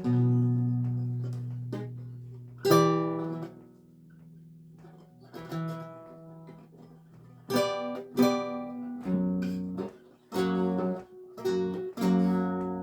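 Lute music: slow plucked chords and single notes, each ringing out and fading, sparse at first and then coming more quickly in the second half.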